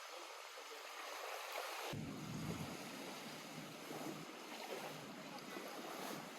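Small lake waves lapping and splashing at the shore, a steady wash of water; about two seconds in it turns abruptly fuller and deeper.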